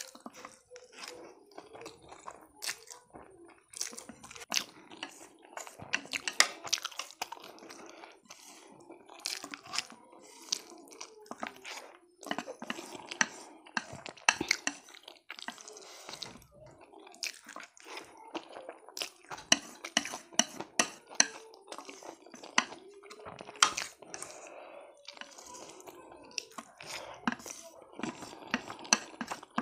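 Close-up eating sounds of noodles being chewed and slurped, with many irregular sharp clicks of chopsticks against a plate.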